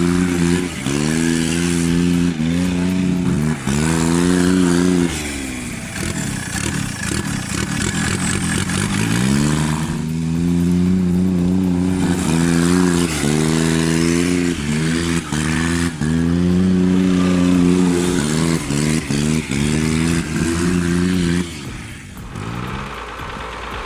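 Small diesel engine of a John Deere Gator utility vehicle held at high revs, its pitch repeatedly sagging under load and climbing back. The revs fall away for a few seconds about five seconds in, pick up again, and drop off near the end.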